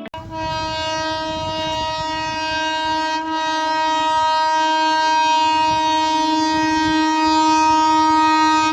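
An EMU local train's horn sounding one long, steady, unbroken note over the low rumble of the running train. It grows louder about halfway through and cuts off sharply near the end.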